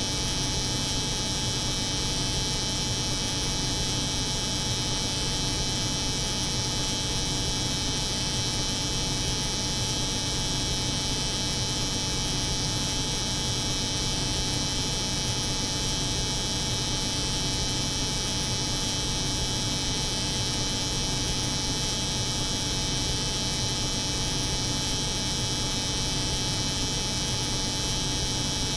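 Electric hair clipper buzzing steadily, layered with the steady hum of a cold room's refrigeration unit.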